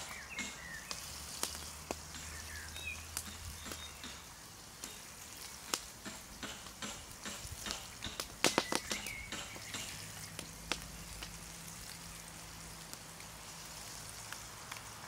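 Floured roach frying in oil in a pan over a campfire: steady sizzling with scattered pops and crackles, and a short flurry of louder crackles about eight and a half seconds in.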